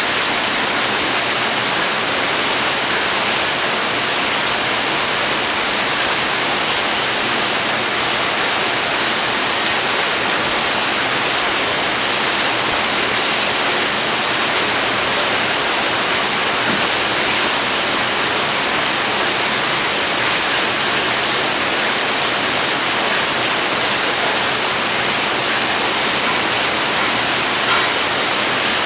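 Rain falling steadily, a dense even hiss without let-up.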